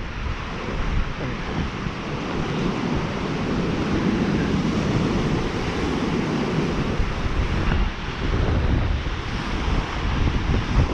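Steady rushing wind with gusts buffeting the microphone, a loud rumble that swells and eases.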